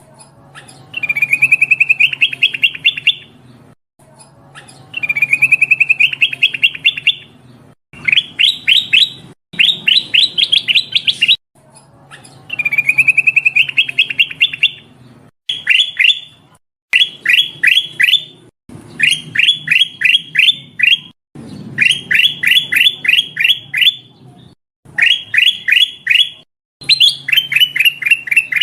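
Kutilang emas (a bulbul) calling in repeated phrases of quick, sharp down-slurred notes, some phrases opening with a short rising trill; the identical phrases come round again and again, as in a looped lure recording meant to draw in the bird. A faint low hum lies beneath.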